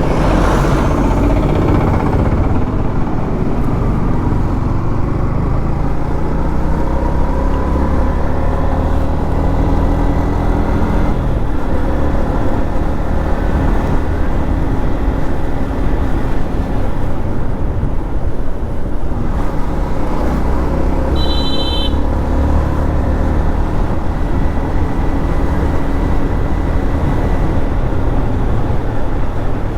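Modified Yamaha MT-15's 155 cc single-cylinder engine running under way at highway speed over a steady low rumble, its revs shifting a little around a third of the way in. A short high beep sounds about two-thirds of the way through.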